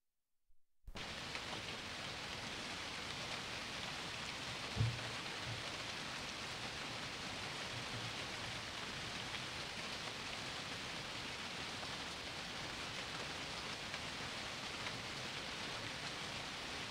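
Steady rain, starting about a second in, with a single low thump near the middle.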